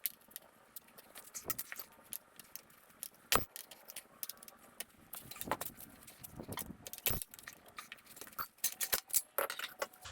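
Metal tire spoons clinking and knocking against a spoked dirt bike rim in irregular sharp strikes, as the tire's bead is pried off the rim.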